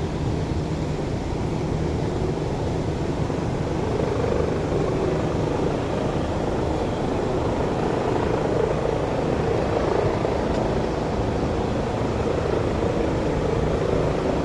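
Helicopter rotor and engine running steadily close by, a loud continuous drone with a fast rotor flutter.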